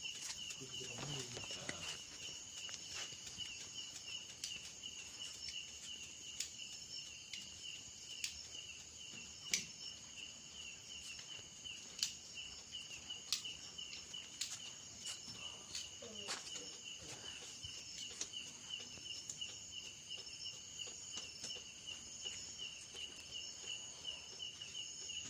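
Crickets trilling steadily in a continuous high chorus, with a few faint clicks scattered through it.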